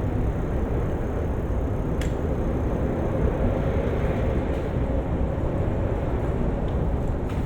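Steady rumble of road traffic passing alongside a moving bicycle, with wind buffeting the microphone, and a single sharp click about two seconds in.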